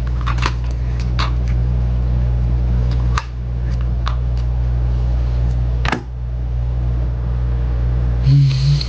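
Steady low machine hum with scattered short clicks and taps.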